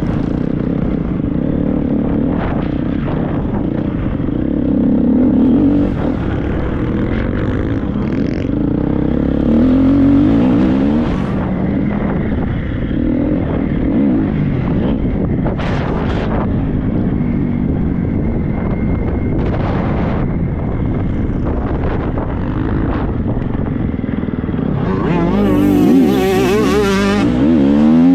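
Triumph 250 motocross bike's four-stroke single-cylinder engine being ridden hard, its revs rising and falling repeatedly as the throttle is worked, with wind noise on the microphone. Near the end it climbs to a louder, higher-revving run.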